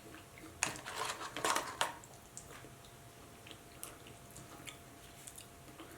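Close-miked eating and food-handling sounds: a short cluster of crackling, crunchy noises in the first two seconds, then only faint wet clicks of chewing.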